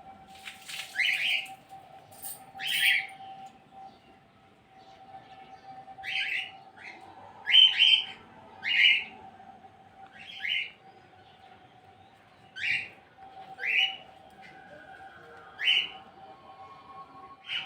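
A bird calling with short, sharp chirps, about a dozen spaced irregularly, some in quick pairs, over a faint steady hum.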